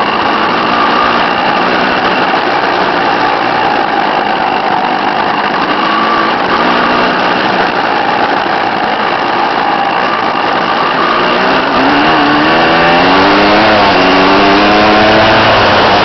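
Dirt bike engine running, under a dense rushing noise. About twelve seconds in it becomes clearer and a little louder, its pitch rising and falling again and again as the throttle is worked.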